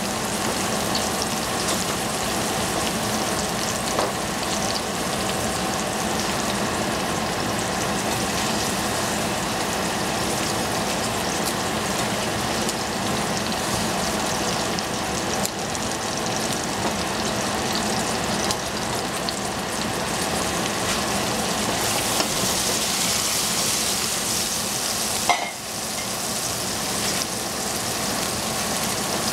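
Cauliflower florets and shiitake mushrooms frying in oil in a stainless steel saucepan, a steady sizzle, with now and then a click of the wooden spatula or a dropped floret against the pan; one sharper knock about 25 seconds in.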